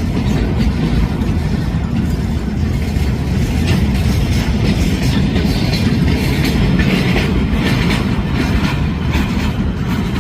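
Empty freight flatcars of a State Railway of Thailand freight train rolling past with a steady rumble, the wheels clacking over rail joints.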